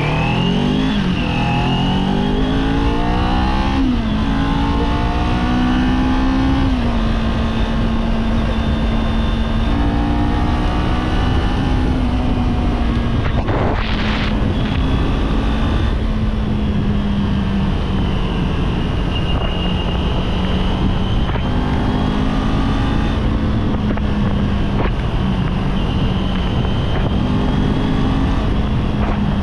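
Kawasaki Z400's parallel-twin engine pulling hard through the gears, its pitch climbing and dropping back at each upshift about two, four and seven seconds in, then running at a steady cruise with small throttle changes. A constant rush of wind and road noise runs underneath.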